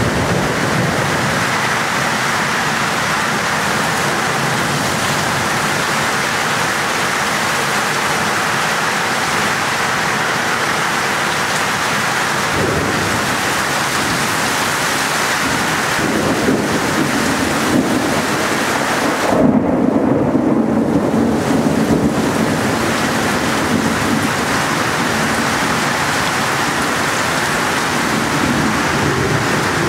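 Heavy downpour: a steady, dense hiss of rain pouring onto the ground and the porch roof, with thunder rumbling, loudest about two-thirds of the way in.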